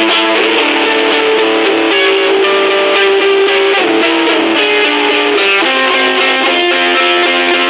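Electric guitar played through a small battery-powered Junkbox Death Metal Droid amplifier with distortion: held notes that change pitch every second or two, with a few bends.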